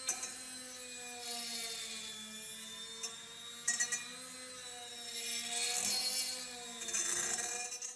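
A power tool's motor running steadily with a slightly wavering whine, with short bursts of abrasive scraping on metal, as in removing rust. The sound cuts off abruptly at the end.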